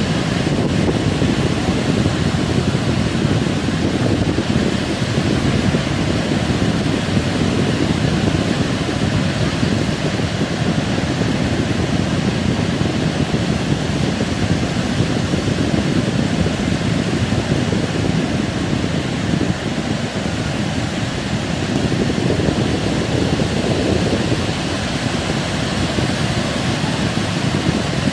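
Heavy surf from a rough sea breaking and washing on the beach, with wind blowing across the microphone: a loud, steady rush of noise with no distinct strokes.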